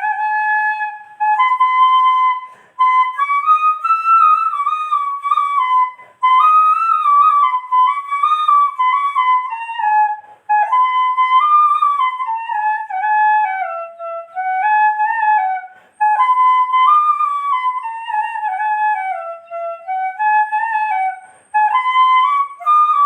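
Background music: a solo flute playing a slow, stepwise melody in phrases with short pauses between them.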